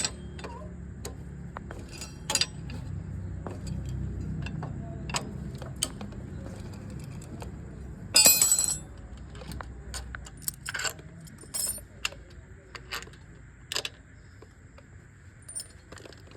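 Metal tools and parts clinking and tapping at scattered moments, with a louder jingling rattle of metal about eight seconds in. A low steady hum sits underneath and fades out about two-thirds of the way through.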